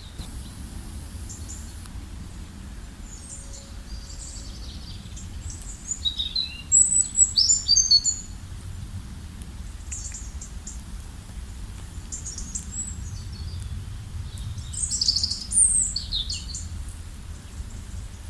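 Small birds chirping and twittering in short, high-pitched calls and trills that come in clusters with gaps, loudest about seven and fifteen seconds in, over a steady low background rumble.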